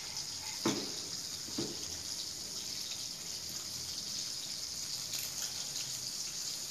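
Blended spice paste sizzling steadily as it sautés in oil in a wok, with two short knocks in the first two seconds.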